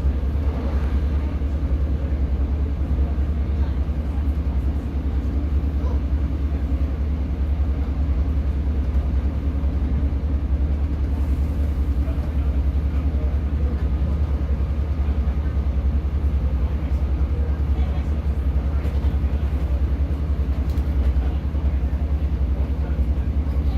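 Steady low drone and rumble inside a Class 150 diesel multiple unit, from its underfloor diesel engine and running gear, unchanging throughout.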